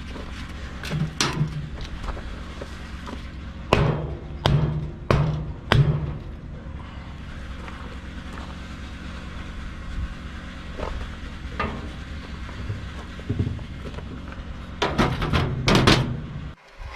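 Hand scraper working old sealant off a steel RV frame: a run of short, sharp scrapes and knocks, four in quick succession a few seconds in and a louder cluster near the end, over a steady low hum.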